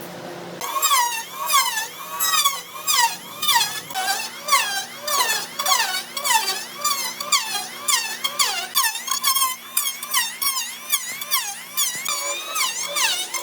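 A rapid run of high, pitched squeaks, each one sliding up and down in pitch, about two to three a second, starting about half a second in.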